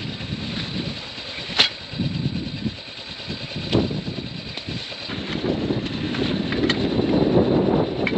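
Strong gusty wind buffeting the microphone, easing in the middle and building again toward the end. Three sharp knocks cut through it, the first the loudest.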